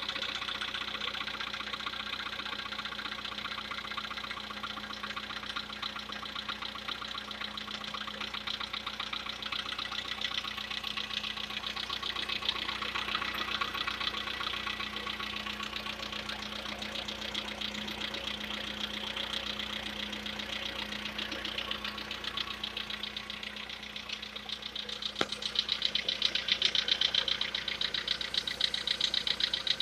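Volkswagen Polo Sedan's CFNA 1.6-litre four-cylinder petrol engine running with a rapid, even knock, the engine knock that the owner hopes decoking will cure. It gets louder after a click about 25 seconds in.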